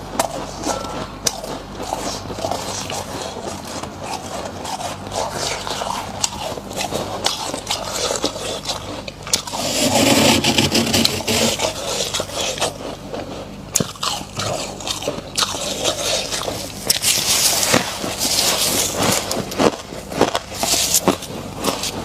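Thick frost being scraped and dug out by hand and crunched: a continuous run of scraping, crackling crunches, with louder bursts about ten seconds in and again from about seventeen seconds.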